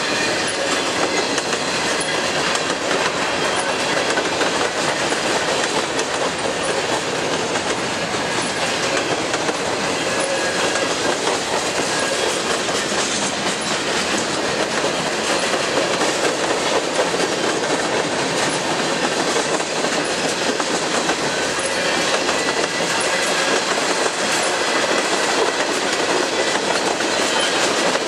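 Freight train of tank cars and covered hoppers rolling past: steady clatter and rumble of steel wheels on the rails.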